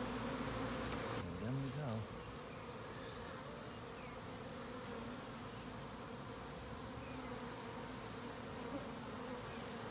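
Honeybee swarm buzzing, a steady hum of many bees holding one pitch.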